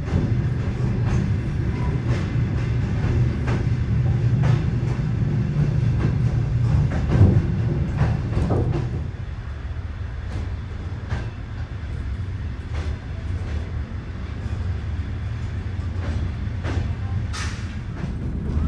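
Passenger train rolling along the track: a steady low rumble with the wheels clacking over rail joints about once a second. A short hiss comes near the end.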